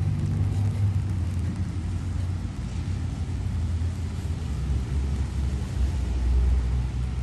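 Steady low rumble that swells and eases, with a faint hiss above it.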